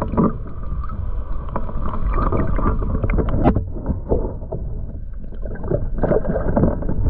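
Water splashing and sloshing at the side of a kayak, in short irregular splashes over a steady low rumble on the microphone.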